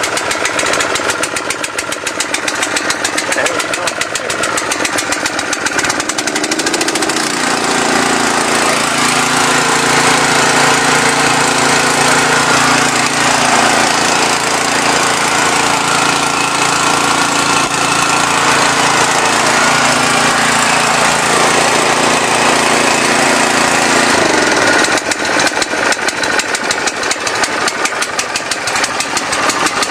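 6.5 hp petrol engine of a pressure washer running at wide-open throttle shortly after a cold start, choke just eased off. Its pitch rises about seven seconds in, holds a steady hum, and drops back a few seconds before the end.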